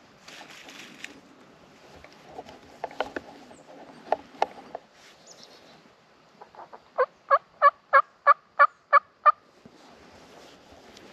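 A run of about eight hen turkey yelps, evenly spaced at roughly three a second, made on a turkey call to bring in a strutting gobbler. A few sharp clicks come before it.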